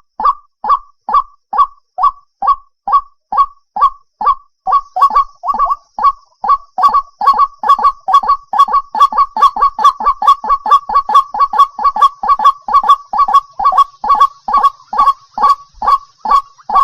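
White-breasted waterhen calling: a repeated loud honking note, about two a second at first, quickening about five seconds in to a faster run of overlapping notes.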